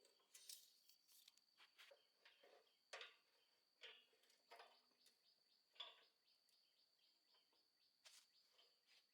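Near silence with a dozen or so faint, sharp clicks and knocks at irregular intervals, the strongest about three and six seconds in, over a faint steady high-pitched tone.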